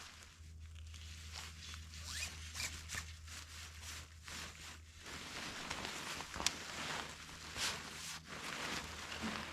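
Scratchy rustling and scraping of stiff, frosty nylon tent fabric and poles being handled while a tent is pitched, in short irregular strokes, with one sharp click a little past the middle.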